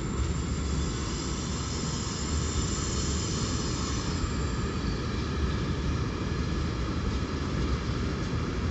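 A train running through the station: a steady rumble and rush of wheels on rail, its higher hiss dying away about halfway through.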